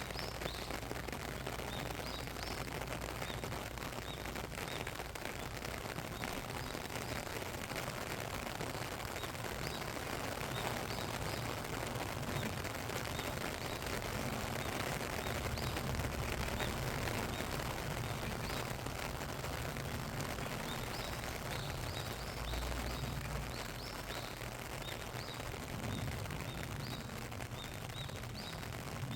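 Steady rain falling, a dense even patter of drops, with small birds giving short high chirps again and again.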